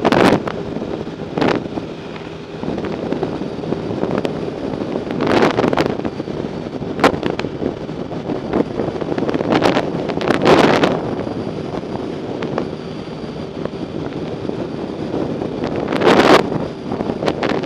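Wind rushing over the microphone on a moving bike, swelling in several gusts, with scattered sharp clicks and knocks.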